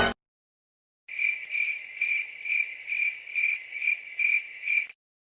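Crickets chirping: a high, steady chirp pulsing about twice a second for nearly four seconds, starting about a second in. This is the stock 'crickets' sound effect used for an awkward silence.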